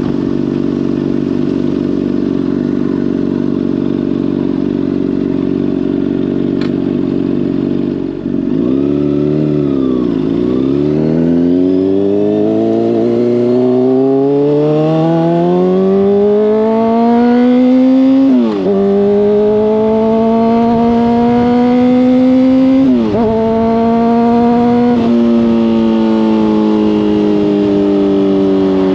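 Honda CBR600RR inline-four sport bike running through a Hotbodies Stinger slip-on exhaust. It holds a steady engine note for several seconds, then pulls hard with a long climb in pitch, broken twice by quick drops that sound like upshifts.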